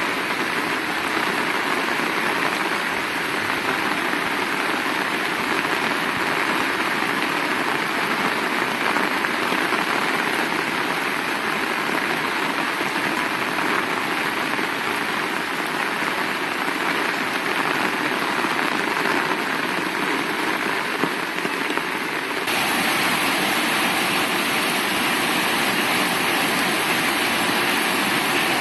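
Heavy rain falling steadily, a dense even hiss. About three-quarters of the way through it suddenly becomes louder and brighter.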